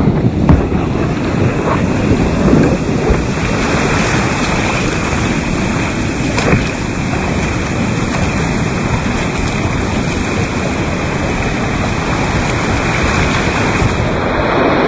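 Whitewater rushing on a creek, a steady loud wash of water noise mixed with wind on the microphone, with a couple of faint knocks.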